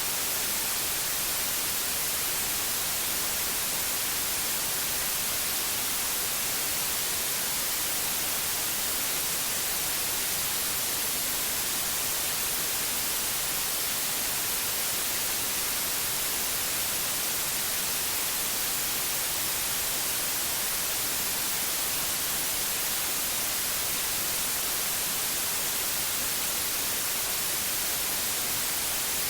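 Pure white noise: a steady, even hiss, brightest in the highs, with no change or events.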